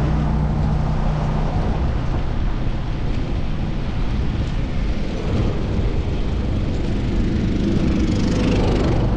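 Wind noise on a GoPro mounted on a cyclist, mixed with the steady rumble of city car traffic; a vehicle swells past near the end.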